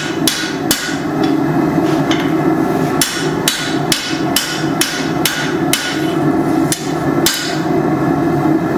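Hand hammer striking hot steel on an anvil in steady forging blows, about two to three a second, with a short lull about a second in before the rhythm picks up again.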